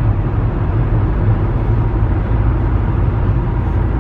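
A car driving at road speed: a steady low rumble of engine and tyres.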